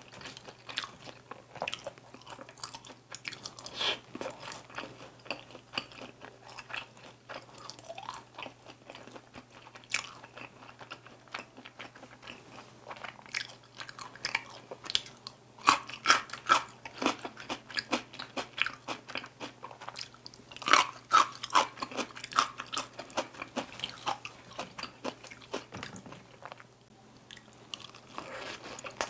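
Close-up chewing and crunching of sauce-glazed Korean fried chicken bites (dakgangjeong), with wet mouth sounds. The loudest clusters of bites come about halfway through and again about three-quarters through, over a faint steady low hum.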